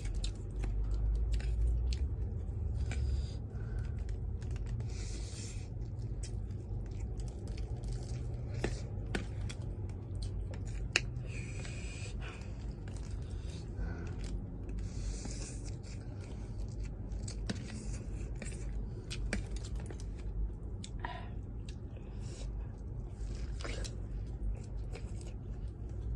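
Close-up eating sounds from a mukbang of spicy instant noodles: chewing and slurping, with short hissy slurps every few seconds and sharp little clicks of utensils, over a steady low rumble.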